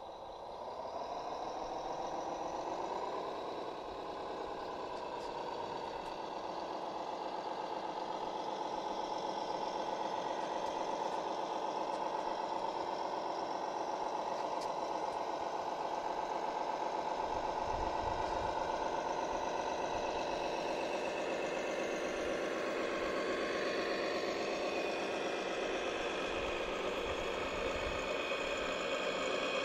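Motor of a large radio-controlled model construction machine running: a whine that rises over the first few seconds and then holds steady, with rattling.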